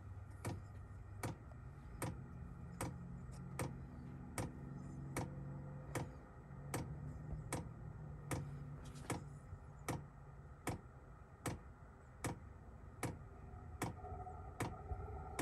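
Chinese diesel air heater's fuel dosing pump clicking evenly, about one sharp click every 0.8 seconds, as it meters diesel to the heater during start-up. A steady low hum runs underneath, and a higher hum joins near the end.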